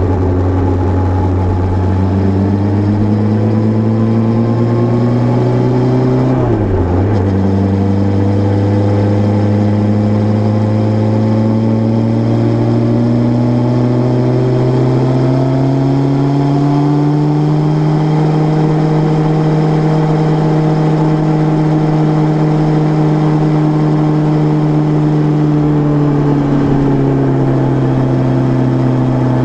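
Suzuki Bandit 600 (GSF600) inline-four engine running, its revs climbing slowly with a brief sharp dip about six seconds in. The pitch then holds steady for several seconds and eases down near the end.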